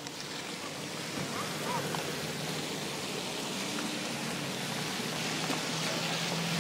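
Steady hiss of road and tyre noise heard from inside a moving car, slowly growing louder, with a low engine hum coming in about halfway through.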